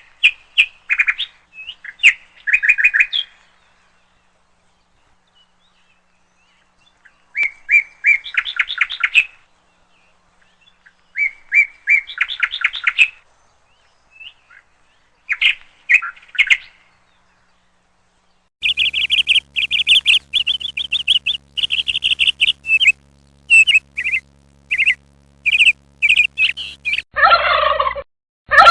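Songbirds chirping in short, rapid trilled phrases with silent gaps between, then a faster run of chirps. Near the end a turkey starts gobbling loudly.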